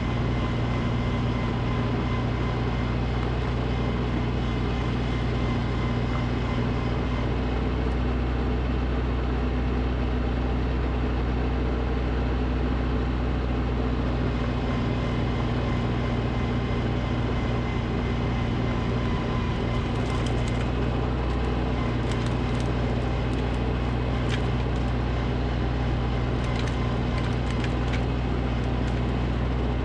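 Snowblower's gasoline engine running steadily at a constant speed, with scattered faint sharp ticks in the second half.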